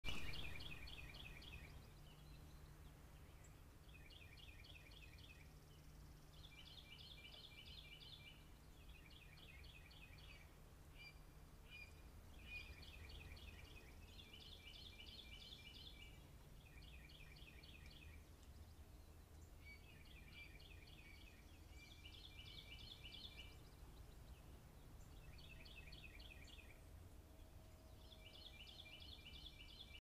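A songbird singing in the background, repeating a short phrase of rapid notes every two to three seconds. It is faint, over a low steady rumble.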